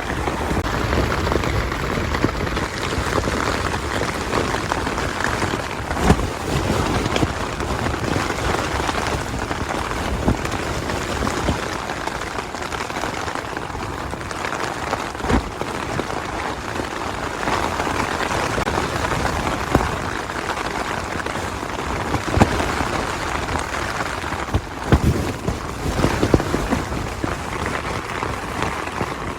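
Heavy rain pelting a tent in strong wind: a dense, steady hiss with a few sudden thuds scattered through it.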